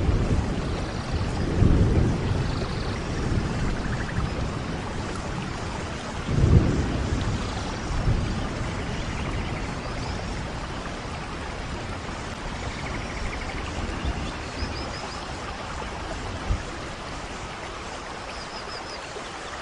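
Steady rain falling, with low rolls of thunder rising several times, the strongest about six and a half seconds in.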